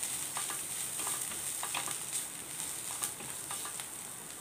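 Onions and ground spice masala sizzling in oil in a kadai, with a spatula scraping and tapping the pan as it is stirred. The sizzle grows quieter toward the end.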